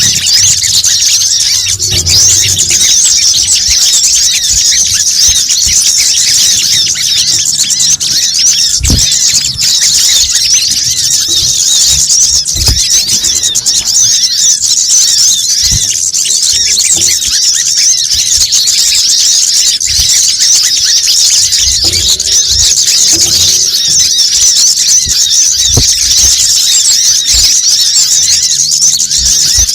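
A dense, unbroken chorus of rapid, high-pitched chirps and twitters from many small birds at once. It is a looped bird-lure recording of sunbirds. A few faint low thumps sit beneath it.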